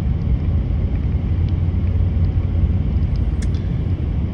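Steady low rumble of a truck's engine and road noise, heard from inside the cab.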